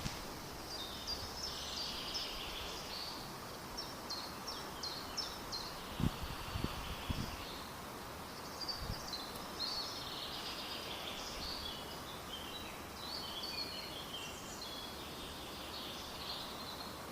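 Birds chirping and warbling in repeated short phrases over a steady background hiss, with a few low thuds about six to seven seconds in.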